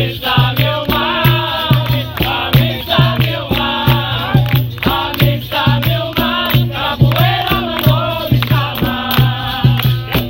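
Capoeira roda music: a group of voices singing over a steady, evenly repeating drum beat with rattling percussion.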